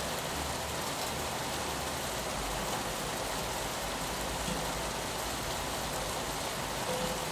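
Steady rain falling on a window, an even hiss with a low rumble underneath.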